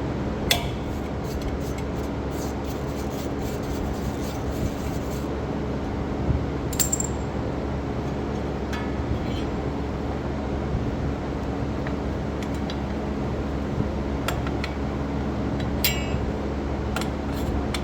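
Hand tools and metal parts clinking and tapping while brake and suspension parts are taken apart, with a flurry of quick clinks in the first few seconds and scattered single clinks later, over a steady low hum.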